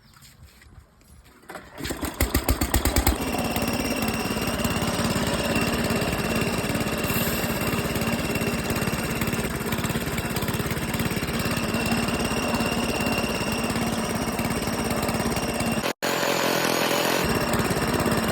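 A motorcycle engine starts about two seconds in with a quick run of pulses, then runs steadily with a constant whine, driving a mill grinding sattu.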